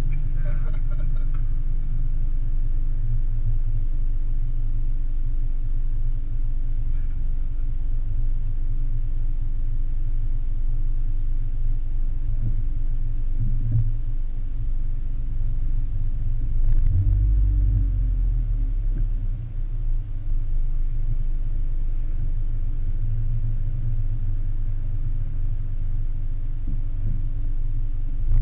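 Low, muffled rumble of a car idling while stopped, heard through a GoPro's sealed waterproof case, which blocks most sound. It swells briefly deeper and louder about two-thirds of the way through.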